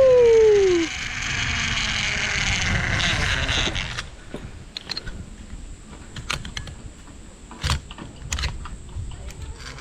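Zip line trolley running along a steel cable: a loud whine falling in pitch at the start, then a rushing rolling noise that dies away about four seconds in, followed by scattered sharp metal clicks.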